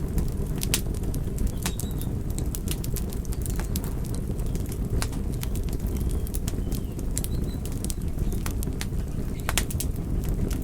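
Wood fire crackling: frequent sharp pops and snaps, irregularly spaced, over a steady low rumble of the burning fire.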